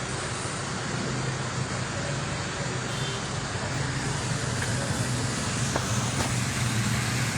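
Steady hiss of heavy rain, with a low steady hum underneath.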